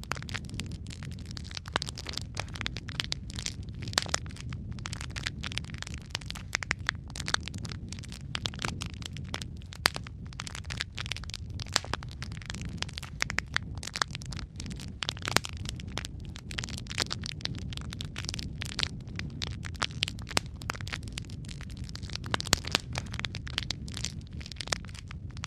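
Wood fire crackling in a fireplace: a steady low rumble of flames with many irregular sharp pops and snaps.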